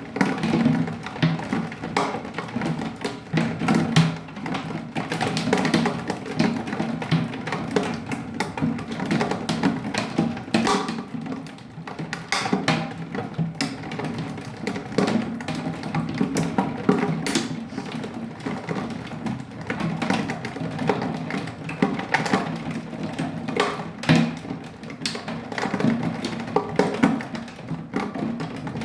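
Hailstones striking a hard surface in a dense, irregular run of sharp knocks over a steady noisy wash of storm.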